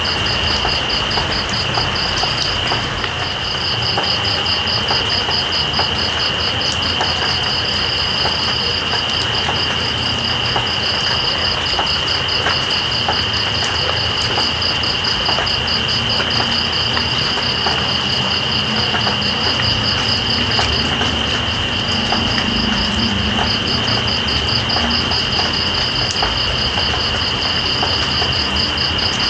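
Night insects trilling without a break: one steady high-pitched tone and, above it, a fast pulsing trill that stops briefly twice. Underneath is a steady hiss of rain with scattered drips.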